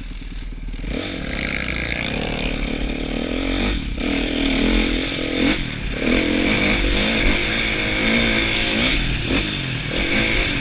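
Kawasaki KX450F single-cylinder four-stroke motocross engine heard from an onboard camera as the bike is ridden, its revs repeatedly rising and falling with the throttle.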